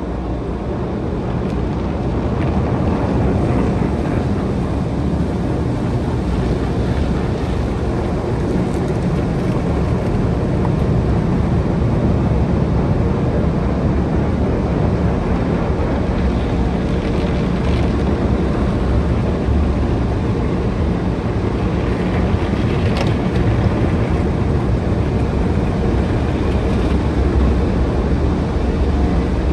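Automatic car wash machinery running, very loud, heard from inside the car: a steady deep rumble and rush with no break.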